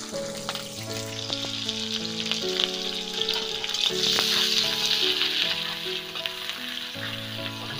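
Chopped onions and chillies sizzling in hot oil in a kadai, the hiss swelling about halfway through, with a spatula scraping and stirring against the pan near the end. Soft background music plays underneath.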